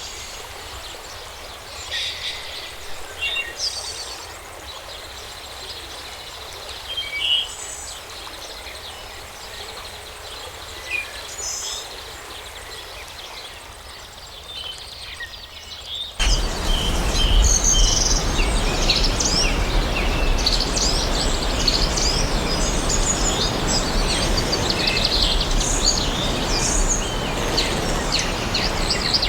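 Forest birds chirping, with scattered short calls over a quiet background. About 16 seconds in, a loud, steady rushing noise cuts in abruptly, and a denser chorus of chirps sounds over it.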